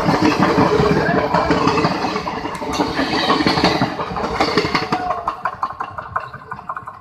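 Passenger train running on the track, a dense rumble with rapid clatter that fades away over the last two seconds.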